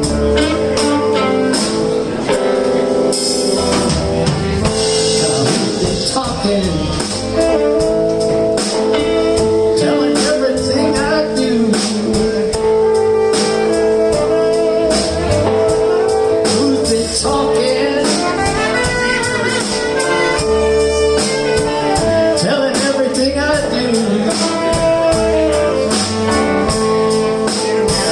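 Live blues band of saxophone, two electric guitars, electric bass and drum kit playing an instrumental passage, the melody held over a steady drum beat.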